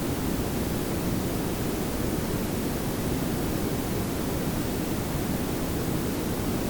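Layered pink and brown noise: a steady, even hiss over a deeper low rumble, unchanging throughout.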